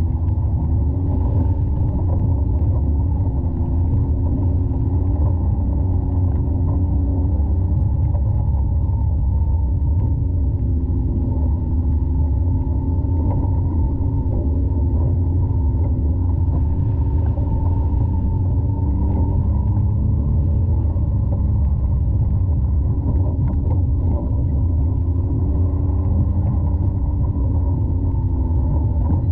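Side-by-side UTV engine running under way, a steady low rumble with its pitch rising and falling as the throttle changes. The sound is muffled and dull, picked up by a camera microphone whose port was clogged with mud.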